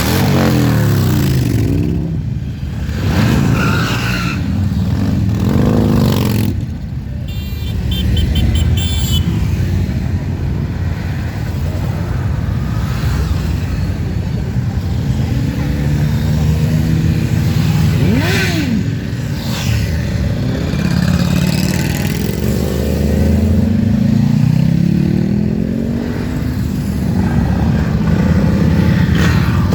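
A stream of motorcycles riding past, engines running and revving, their pitch repeatedly rising and falling as bike after bike goes by.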